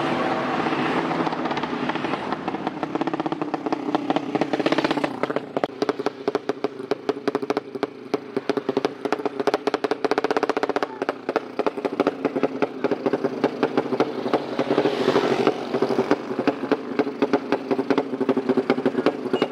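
Tuned drag-race motorcycle engine running with rapid, crackly exhaust pulses. It is revved up about four seconds in and again around fifteen seconds in.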